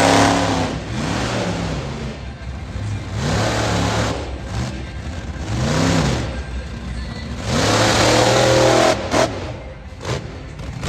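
Monster truck engine revving in a series of blips, each climbing and falling in pitch, with a longer held rev near the end.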